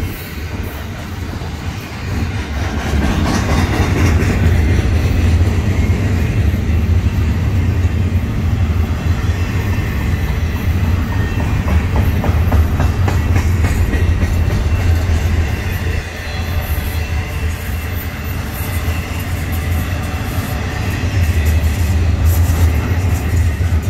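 Double-stack intermodal freight cars rolling past close by: a steady, loud low rumble of steel wheels on rail.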